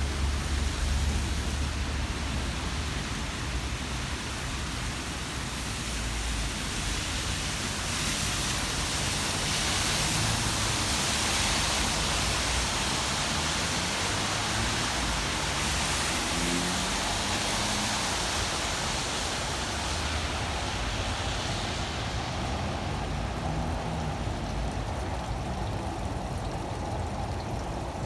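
Steady hiss of rain and traffic on a wet street, swelling for several seconds in the middle before settling again.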